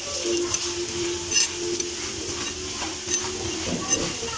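Paratha frying in ghee on an iron tawa: a steady sizzle, with a few light clicks of the metal spatula as it is pressed and turned. A low steady hum runs under it for the first three seconds.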